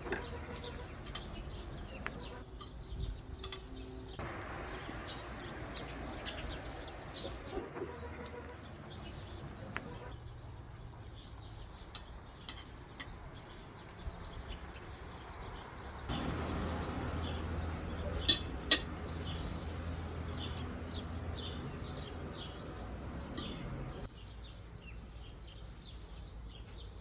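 Outdoor ambience with small birds chirping, the background noise shifting abruptly several times. Two sharp clicks come close together about two-thirds of the way through.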